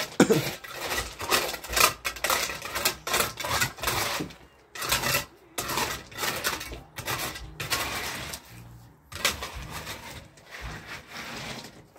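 Irregular clattering and scraping of hard objects, a run of many short knocks with brief pauses.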